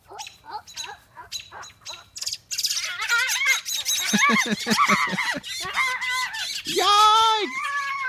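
Parent songbirds alarm-calling and squawking around their just-fledged young, defending them against the people nearby. Short scattered chirps at first, then from about two and a half seconds in a loud, dense run of rapid harsh calls, with one long drawn call near the end.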